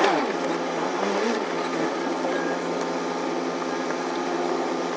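A semi truck's engine running steadily. A brief falling tone at the very start and a small rise-and-fall about a second in break the otherwise even drone.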